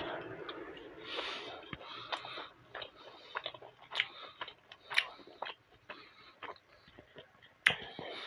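A person chewing momo dumplings close to the microphone: irregular wet mouth smacks and sharp clicks, with the loudest around four, five and seven and a half seconds in.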